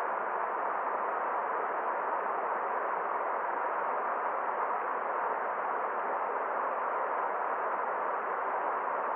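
Steady rush of a flowing forest stream: an even, unbroken hiss of water with no separate splashes or drips, lacking any deep rumble or high sparkle.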